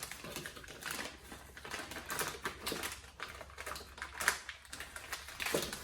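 Irregular clicking and crinkling of packaging and small items being handled and unwrapped, with one sharper click about four seconds in.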